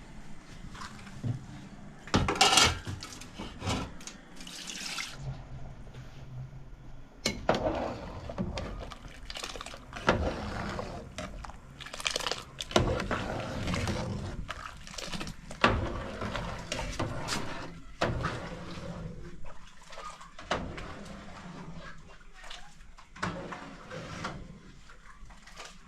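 Water pouring and splashing in irregular bursts, as in washing or filling a pot by hand.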